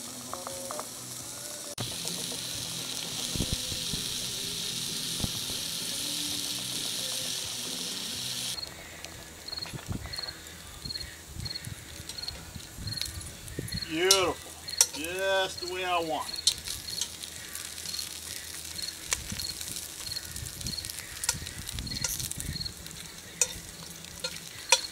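Bacon sizzling in hot grease in a cast iron Dutch oven over campfire coals. After about eight and a half seconds it gives way to chicken breasts frying more quietly in the bacon grease, with metal tongs clicking against the pot as the pieces are turned. A short run of rising-and-falling calls sounds midway through, and a faint chirp repeats about twice a second in the second half.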